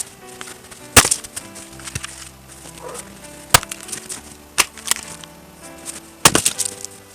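Several sharp knocks and cracks of wood being struck, the loudest about a second in and near the end, over steady background music.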